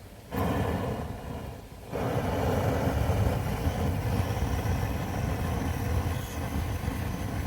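A steady low rumbling noise, coming in just after the start and growing louder about two seconds in.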